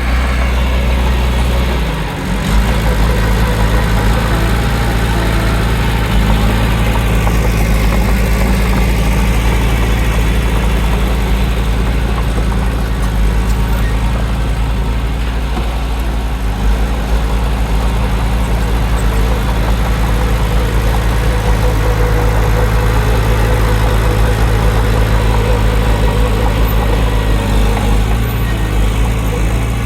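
A heavy diesel engine of an earthmoving machine running steadily with a deep, even hum. There is a brief dip in level about two seconds in.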